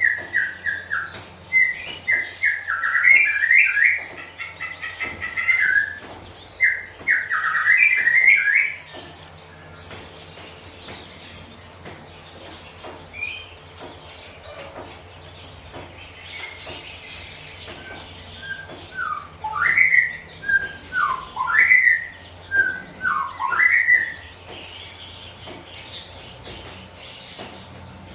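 Oriental magpie-robin singing: a run of varied, quick whistled phrases over the first nine seconds, then after a lull a few sharp up-and-down whistles around twenty seconds in.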